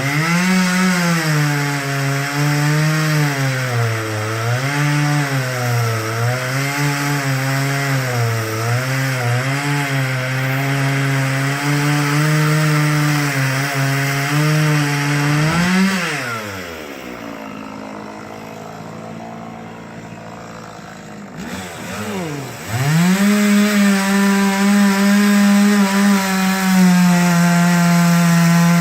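Chainsaw running at high speed while cutting wood, its engine pitch wavering under load. About two-thirds of the way in it drops to idle for several seconds, then revs back up and runs steady at full throttle.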